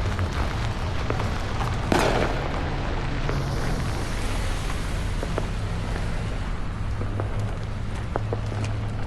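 Outdoor ambience while walking: a steady low rumble with scattered small clicks, and one sharp bang about two seconds in.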